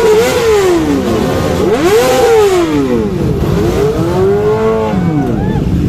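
Superbike engines being revved, the pitch rising and falling again several times in overlapping sweeps.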